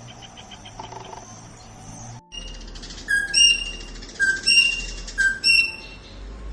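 A bird gives about five loud, short, sharp calls over the second half. Before that a soft, rapidly pulsing trill runs, and it cuts off abruptly about two seconds in.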